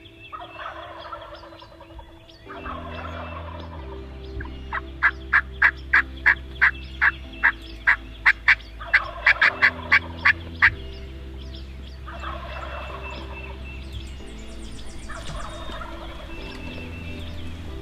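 Wild turkey gobbles, several rattling calls each about a second and a half long, over background music with low held chords. Midway comes a fast run of loud, sharp, evenly spaced notes, about three a second.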